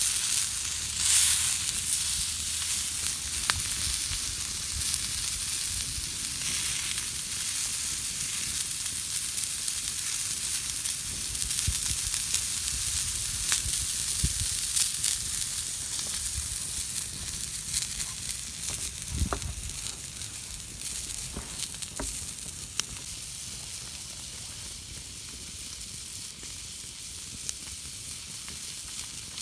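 Driftwood campfire burning, a steady hiss with frequent sharp crackles and pops; the hissing swells briefly about a second in and the fire grows a little quieter toward the end.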